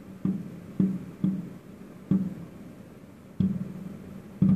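Fireworks shells bursting in the air: six booms at uneven intervals, each trailing off in a rumbling echo.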